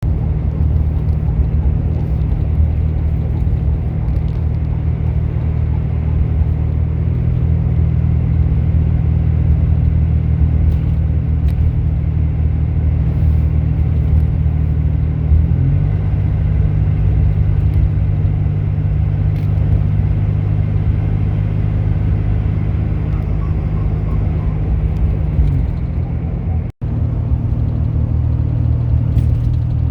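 Turbocharged car engine running as a steady low drone. Its pitch shifts slightly about halfway through and again later, and there is a momentary break in the sound near the end.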